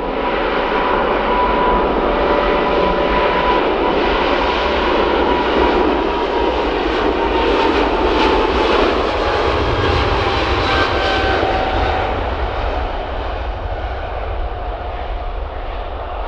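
Jet aircraft engines passing close by: a loud rush with a whine that slowly drops in pitch as the plane goes past, then fades away near the end.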